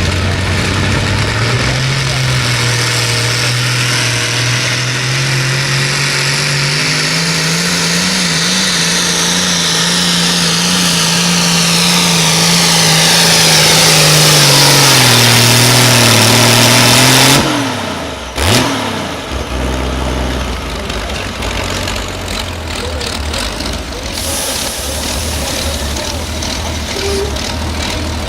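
Modified pulling tractor's engine at full power under load during a pull, its pitch climbing early and holding high for about fifteen seconds. It then drops off, with a sharp snap about eighteen seconds in, and a lower engine rumble carries on.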